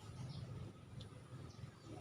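Faint outdoor ambience with a low rumble and a few short, high bird chirps.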